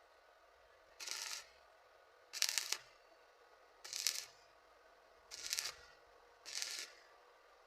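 Welding arc crackling in five short bursts of about half a second, about one every second and a half: a weld laid down in quick stitches.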